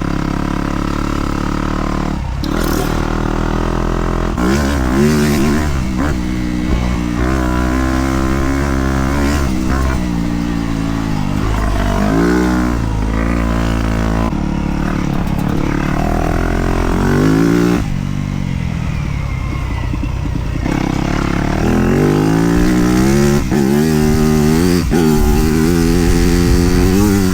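Dirt bike engine revving up and dropping back again and again as the rider accelerates, shifts and rolls off the throttle on a trail. The throttle is mostly closed for a few seconds about two-thirds of the way through.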